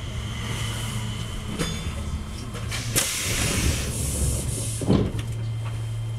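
Electric commuter train's cabin running noise, a steady low hum, with a loud hiss lasting about a second and a half from about three seconds in and a single knock near the end.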